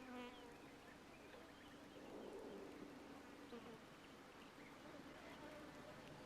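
Faint buzzing of flying insects, a wavering hum that drifts up and down in pitch.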